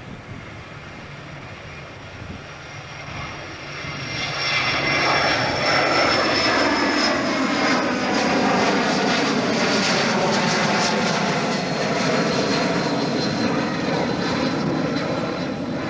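Airliner passing close by: engine noise swells about four seconds in and stays loud, with a high engine whine that slowly falls in pitch as it goes past.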